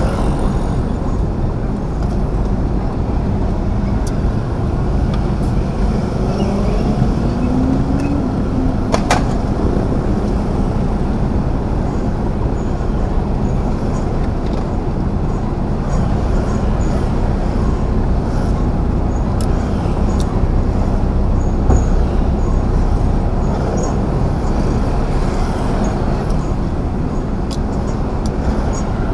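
Steady vehicle engine and road noise while driving in city traffic, with a brief rising engine tone about seven seconds in and a single sharp tick about two seconds later.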